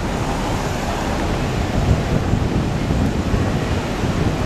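Steady street traffic noise with wind rumbling on the microphone; no clear engine note stands out.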